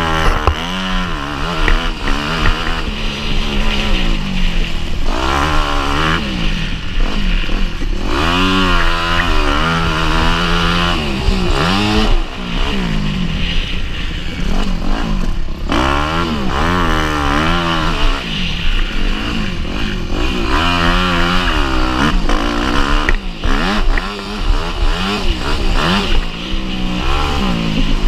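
Motocross bike engine revving hard and backing off over and over, its pitch climbing and dropping as it works through the gears around the track, with wind rush and a rattling chassis.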